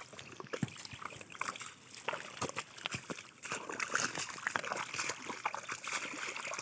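River water sloshing and splashing in quick, irregular bursts.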